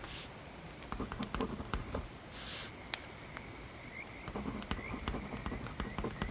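Wood fire crackling, with scattered sharp pops and snaps and a short soft hiss about two and a half seconds in.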